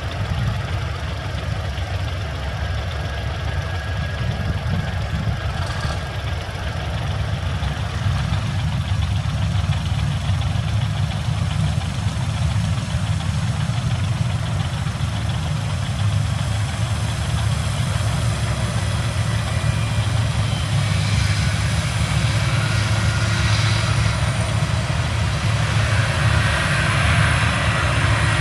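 Heavy farm machinery engine running steadily during a corn harvest, a continuous low hum with mechanical noise above it.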